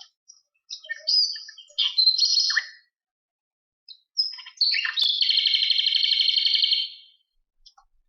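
Recorded bird song: short chirped phrases in the first three seconds, then, after a pause, a long rapid trill lasting about two and a half seconds.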